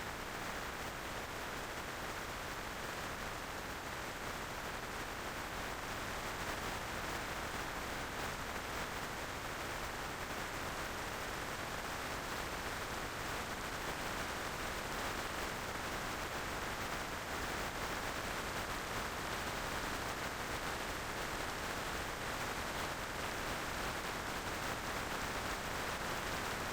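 Steady rush of wind noise on the microphone of a moving motorcycle, even and unbroken, with no engine note standing out.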